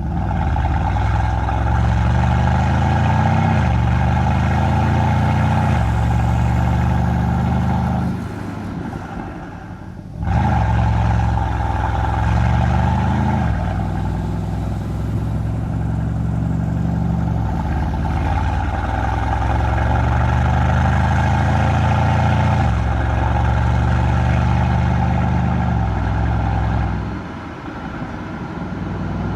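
Mercedes-AMG C63's twin-turbo V8 exhaust under repeated acceleration, its pitch climbing and then stepping down at each upshift. The throttle is lifted about eight seconds in, and the sound drops away for about two seconds before coming back sharply. It eases off again near the end.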